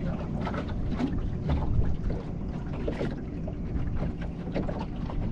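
Wind buffeting the microphone and a steady low rumble of water against a small boat, with many irregular light knocks and bumps on board.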